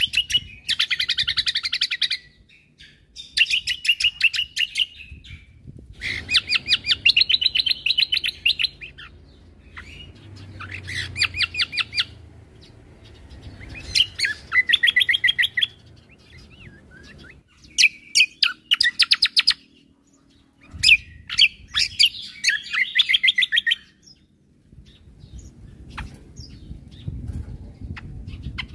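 Cucak kombo (kecial kombo) songbird singing loud, full song: a series of bursts, each one to three seconds of very fast, high-pitched repeated notes, with short pauses between them.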